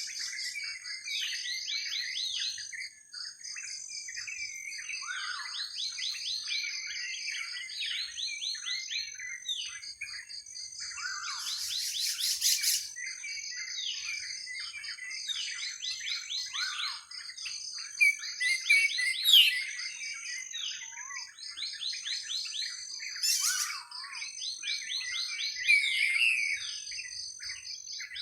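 Several birds singing at once, with overlapping fast runs of repeated chirps and trills that keep going without a break. A thin, steady high tone comes and goes underneath.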